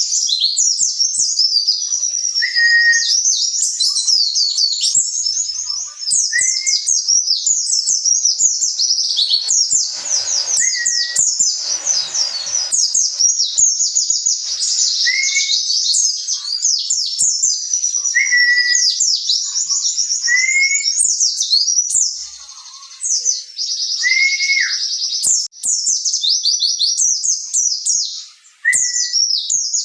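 White-eye (pleci) singing a fast, unbroken twittering song of high chirps and trills, with a short lower whistled note every few seconds. A brief rustling noise comes about ten seconds in.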